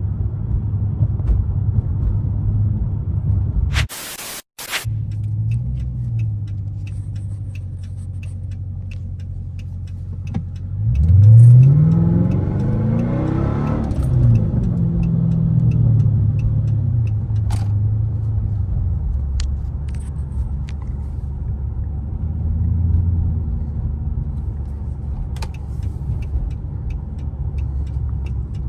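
Dodge Charger R/T's Hemi V8 running while driving, with a steady low hum. About eleven seconds in it revs up in a hard acceleration, its pitch rising sharply, then falls back to a cruise, with a smaller swell near the end. A brief burst of hiss and a short break come about four seconds in.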